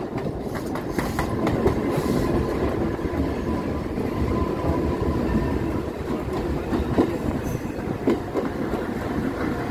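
Mumbai suburban electric local trains running side by side at speed: a steady rumble with irregular clatter of wheels over rail joints, heard from inside a moving coach through its open window grille.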